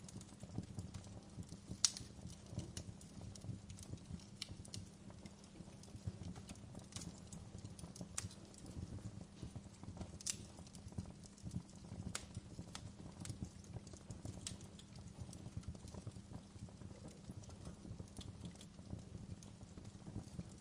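Wood fire crackling in a fireplace: a steady low rumble under dense small crackles, with sharp pops scattered irregularly, a few of them louder.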